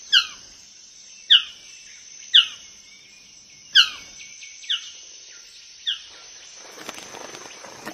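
Male magnificent bird of paradise calling to summon onlookers to his display court: six short, sharply falling notes about a second apart, the last two softer. A steady high insect buzz runs underneath.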